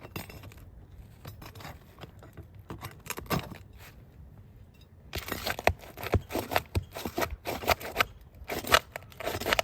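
Roofing underlayment being cut and torn open by hand: a few light scrapes, then from about five seconds in a rapid run of rough scraping and crackling strokes.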